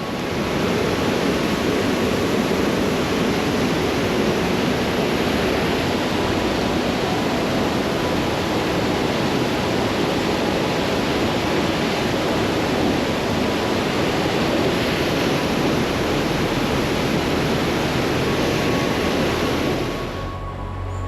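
Rushing water, a loud, steady, even rush with no swells, that cuts off about twenty seconds in.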